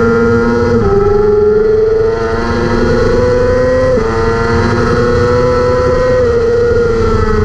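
600cc racing motorcycle engine at high revs under full throttle, upshifting twice: the pitch drops sharply about a second in and again about four seconds in, climbing steadily after each shift, then easing down slowly near the end as the throttle comes off.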